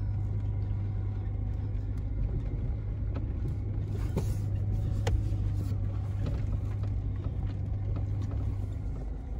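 Vehicle engine running at low speed, heard from inside the cab: a steady low hum, with a few light clicks, the clearest about five seconds in.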